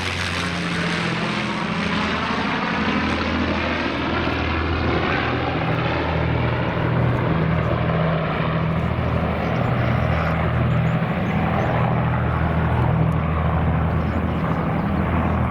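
Avro Lancaster's four Rolls-Royce Merlin V12 engines droning in a low fly-by, a steady deep engine note with a swirling, phasing sound early on, growing duller in the first few seconds as the bomber moves off.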